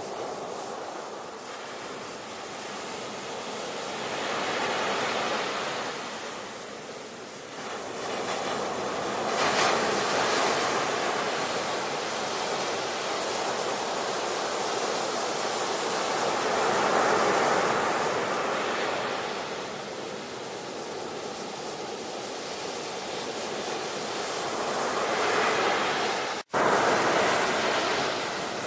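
Ocean surf: waves breaking and washing in, the rush swelling and fading every few seconds. Near the end the sound cuts out for a split second and comes back at its loudest.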